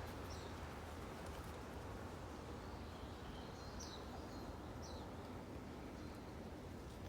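A few short, high bird chirps over a steady low background rumble.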